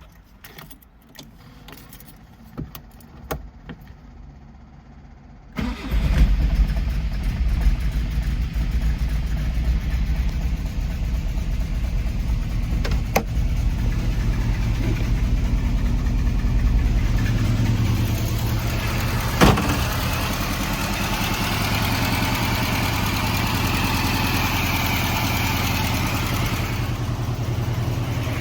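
1960 Mercedes 190SL's 1.9-litre four-cylinder engine started from cold. After a few seconds of quiet with a few light clicks, it fires and catches about five and a half seconds in, then keeps running steadily, its sound growing brighter a little past halfway.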